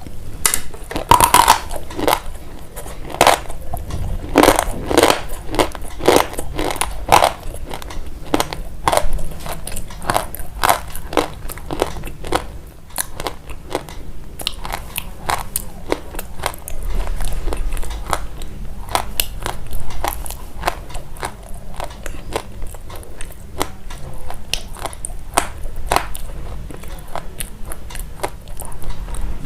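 Crisp crunching, like biting and chewing something crunchy: a rapid, irregular run of sharp crackles, densest and loudest in the first several seconds.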